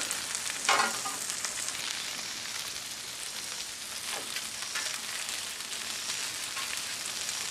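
Breaded catfish pieces shallow-frying in oil on a flat-top griddle, a steady sizzle with fine crackling. A brief louder sound comes about a second in.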